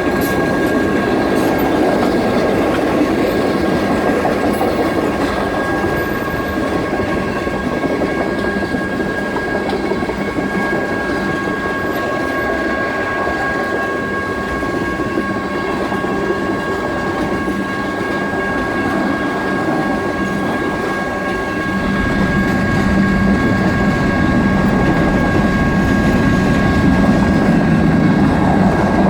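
Freight cars of a BNSF manifest train rolling through a grade crossing, their wheels clattering and rumbling over the rails, under the steady electronic tones of the crossing bells. A low drone grows louder about two-thirds of the way through.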